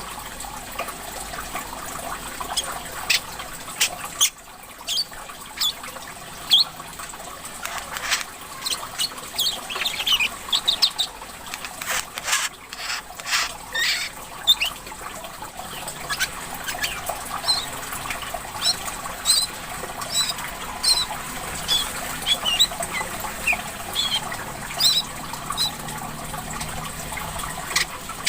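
A korlap, a small songbird, giving rapid high chirps and short trills in a run of separate calls, over a steady trickle of water.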